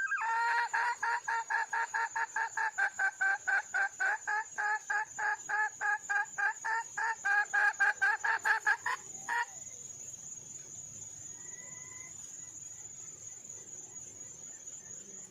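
Wild red junglefowl hen calling in a fast run of repeated clucking notes, about four a second, that stops abruptly about nine seconds in. A steady high insect trill runs underneath.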